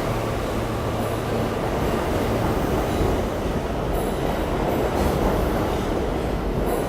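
New York City subway train running on the rails: a steady, loud rumble of wheels and cars, with faint high-pitched wheel squeals coming and going.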